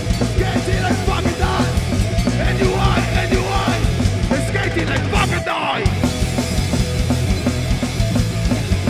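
Live punk rock band playing loud. The bass and drums drop out for a moment a little past halfway, then the full band comes straight back in.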